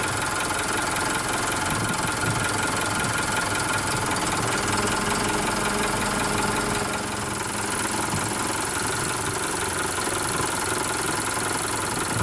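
Mitsubishi Fuso Canter's 4P10 four-cylinder turbo-diesel engine idling steadily, with a diesel's knocking clatter.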